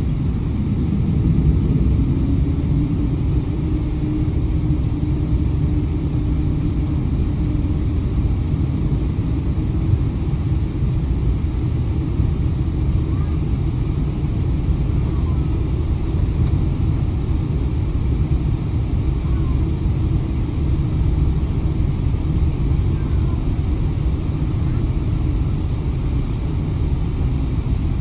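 Steady low rumble inside a jet airliner's cabin with the engines running on the ground ahead of takeoff, with a faint steady hum above it.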